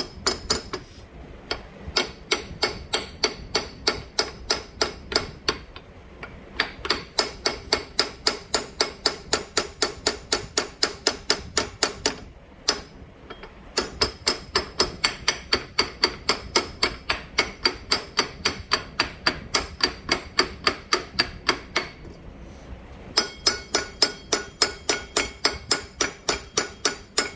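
Rapid light hammer taps on metal, about four a second in long even runs with a few short pauses, each strike ringing briefly: an adapter sleeve being tapped up onto a small engine's crankshaft, a tight fit.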